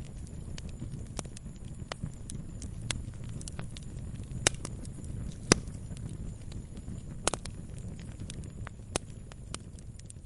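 Fire in a fireplace crackling, with irregular sharp snaps over a steady low rumble; a few louder pops stand out, the loudest about five and a half seconds in.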